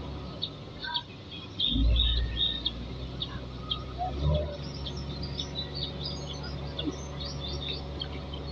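Wild birds chirping in short, high calls throughout, over a steady low rumble. A loud low rumbling surge about two seconds in is the loudest sound.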